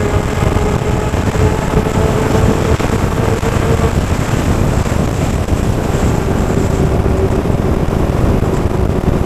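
Straight-piped Suzuki GSX750F inline-four running at a steady cruise under a loud rush of noise. Its note holds one pitch, fades out for a couple of seconds midway, then returns slightly lower.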